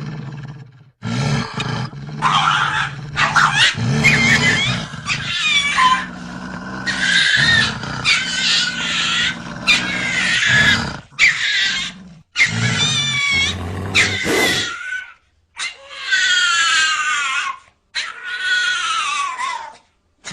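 Animal growls and cries in a string of short segments that cut off abruptly, the last two being high cries that fall in pitch.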